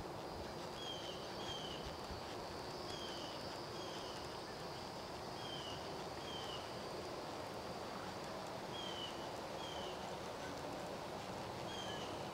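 Outdoor background noise with a bird calling over and over: two short falling notes at a time, the pair repeated every two to three seconds, over a faint steady high whine.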